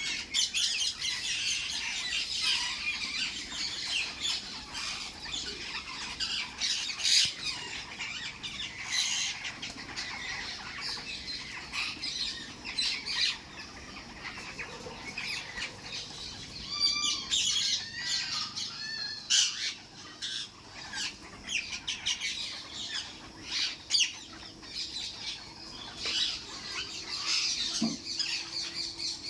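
Several pet parrots squawking and chattering, their calls overlapping throughout, with a run of clearer repeated calls in the middle.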